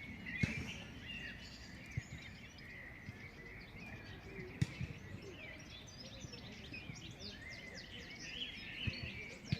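Many small birds chirping and twittering at once, a busy outdoor chorus of short high calls, with a few soft thumps.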